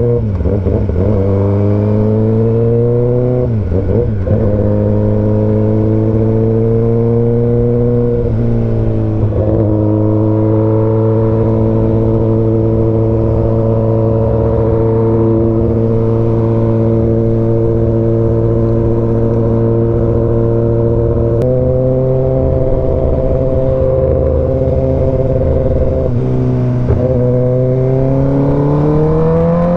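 Honda CBR150R's single-cylinder engine running through a modified aftermarket exhaust, held at a steady speed for long stretches with a few brief dips and pickups in engine speed, and rising in pitch near the end.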